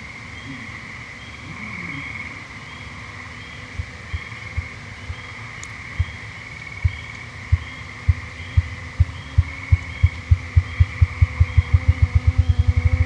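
Ruffed grouse drumming: deep, muffled wingbeat thumps that begin a few seconds in, slow and spaced, then speed up steadily into a rapid roll near the end. Behind it is a steady high trill.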